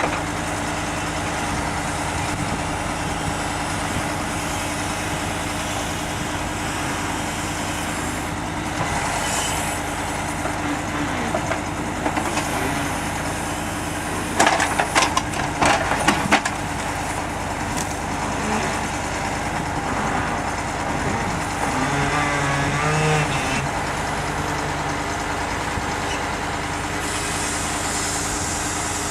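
Heavy diesel engine of a KAMAZ timber truck running steadily during log loading, with a burst of knocks and clatter about halfway through.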